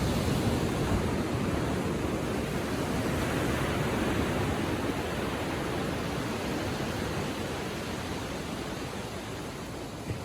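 Gentle ocean surf washing on a sandy beach: a steady rush of water that swells at the start and slowly ebbs away over the following seconds.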